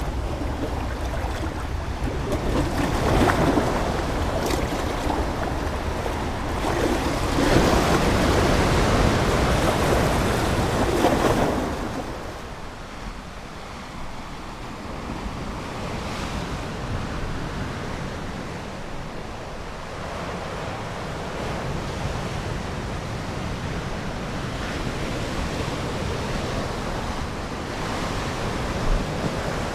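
Ocean surf: waves break and wash in twice, the second swell louder and longer, ending about twelve seconds in, then the sea settles to a softer, steady wash.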